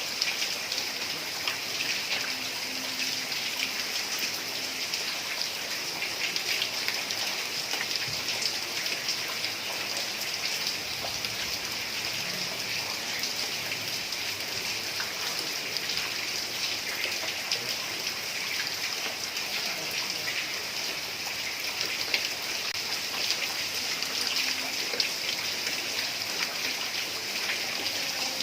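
Heavy rain falling steadily on a tiled roof, a dense hiss of many small drop ticks with no let-up.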